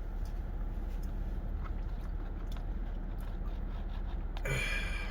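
A person chewing food, with faint small mouth clicks, over a steady low rumble. Near the end there is a brief, louder sound.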